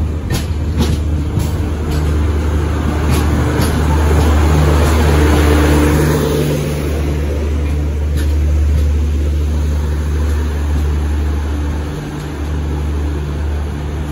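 Express train's passenger coaches rolling past with wheel clicks over rail joints, then the rear luggage-brake-and-generator car going by with the steady drone of its diesel generator, which carries on as the train pulls away.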